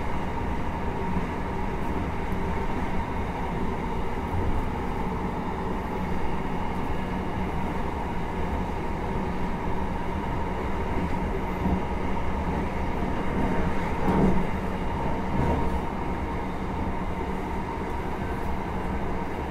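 Running noise inside a JR Hokkaido 733 series 3000-subseries electric multiple unit under way: a continuous rumble of wheels on rails with a steady hum. There is a brief louder patch about fourteen seconds in.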